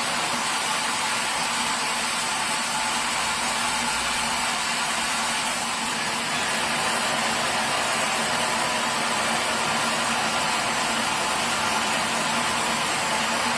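Sawmill machinery running steadily: a loud, even mechanical noise with a faint hum, rising slightly about halfway through.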